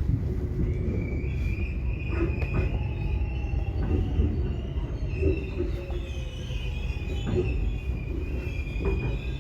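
Subway train running on the rails: a deep, steady rumble with a sustained high-pitched squeal of the wheels and a short knock from the track every second or two.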